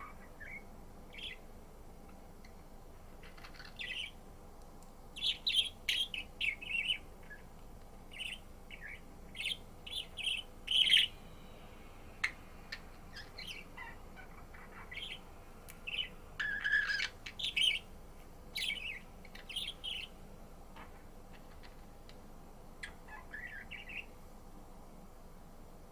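Budgerigar chirping and warbling in scattered clusters of short, high chirps with pauses between them. One sharp click about twelve seconds in.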